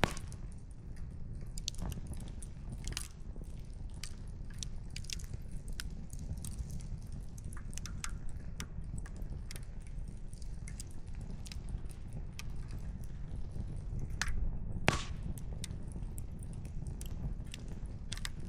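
Wood campfire crackling, with irregular sharp pops and snaps from the burning logs over a low, steady rumble. One louder pop comes about 15 seconds in.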